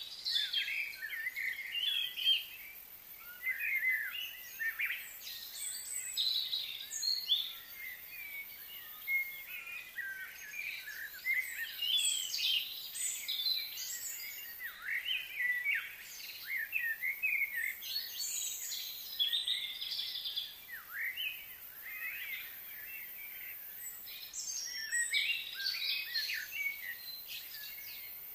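Many small birds chirping and singing in overlapping, busy calls, with a faint steady high hiss underneath.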